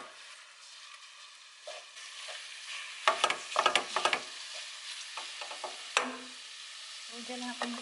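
Ground pork and beef frying in a pan, with a steady sizzle. A utensil stirs and scrapes against the pan in a few bursts partway through.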